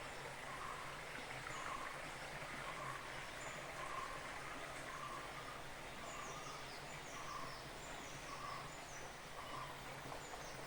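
Outdoor rural ambience with a steady hiss. One bird repeats a short low note at an even pace, and in the second half another bird gives a run of high, falling chirps.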